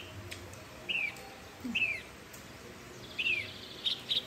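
A bird chirping: short down-slurred chirps about a second apart, then a few quick, higher notes near the end.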